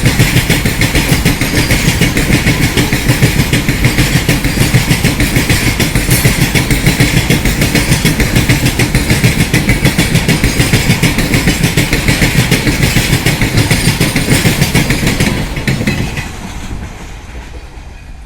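Wagons of a fast freight train clattering over the rail joints, a rapid clickety-clack of steel wheels with steady rumble and rail hiss. About fifteen seconds in the sound fades away as the rear of the train passes and draws off.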